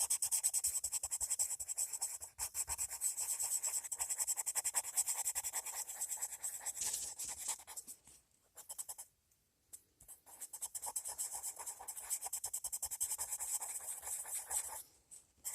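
Coloured pencil scribbling rapidly back and forth on paper, shading in an area. It stops for about two seconds about eight seconds in, then starts again.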